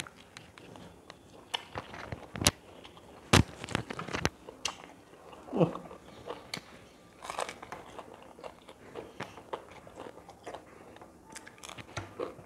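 Close-miked biting and chewing of crispy grilled chicken: irregular sharp crunches, a few of them loud, with softer chewing between.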